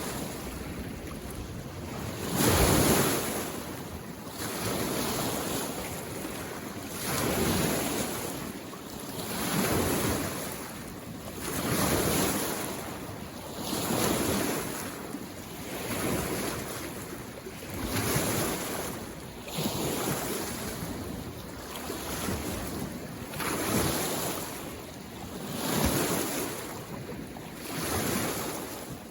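Small waves on a mountain lake washing in, each one a rush of water that swells and fades, about one every two seconds.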